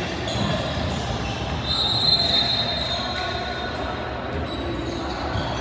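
Referee's whistle blown once about two seconds in, a high steady shrill tone lasting about a second and a half, over gym noise.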